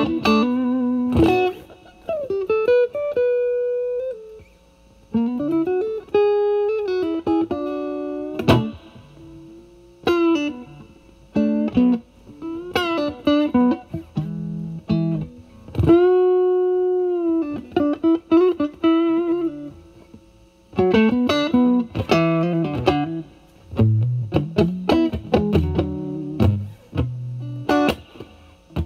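Fender Stratocaster played through a Vertex Steel String Clean Drive overdrive pedal at full gain into a Marshall Valvestate amp's clean channel. It plays bluesy single-note lead phrases with string bends, with a long held bent note about halfway through and short pauses between phrases.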